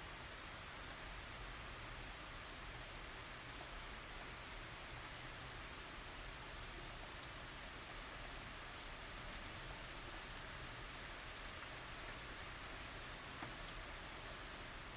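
Steady light tropical rain falling, a soft even hiss with many small drop ticks.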